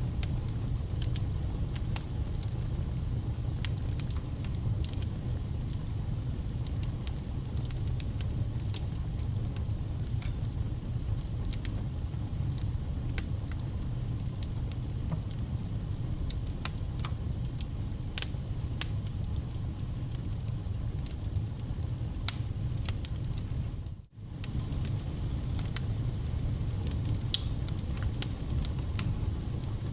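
Wood fire burning, with a steady low rumble and many scattered sharp crackles and pops from the burning logs. The sound drops out for a moment about 24 seconds in.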